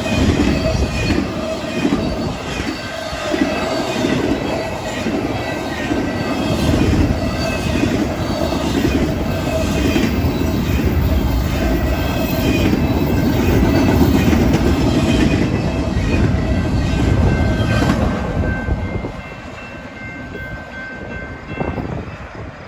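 Freight train cars rolling past with a regular clickety-clack of wheels over the rail joints and steady high tones from the wheels. About eighteen seconds in the train's end passes and the sound falls away.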